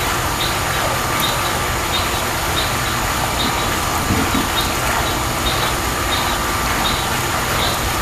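Steady hiss with a short, faint high chirp repeating about once a second, like a calling animal.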